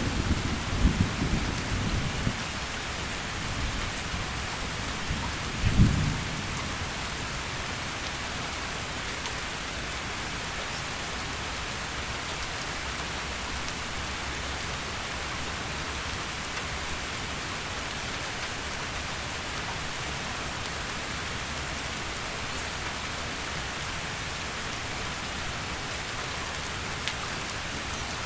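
Heavy rain falling steadily in a thunderstorm. A low rumble of thunder dies away in the first couple of seconds, and a short thunder clap comes about six seconds in; after that there is only the steady rain.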